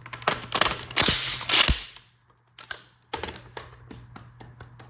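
Hand tools working on a Ford 5.0 V8 while its spark plugs are being pulled: sharp metal clicks and clatter, a louder rattling stretch in the first two seconds, a brief gap, then a quick run of clicks that fades out.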